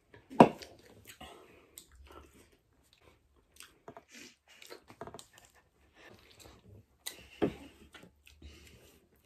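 Close-miked chewing and biting of pizza: wet mouth smacks and a few crunchy bites. A sharp knock about half a second in is the loudest sound.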